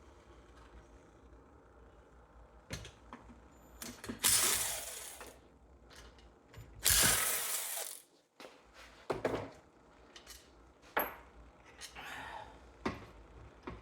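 Ratchet clicking and metal clatter from tools working on a small engine's bottom bolts. Two louder, rushing sounds about a second long come about four and seven seconds in.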